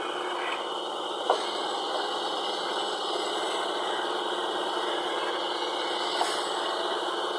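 Sawmill machinery running with a steady whirring noise, with one sharp knock about a second in and a fainter one near the end.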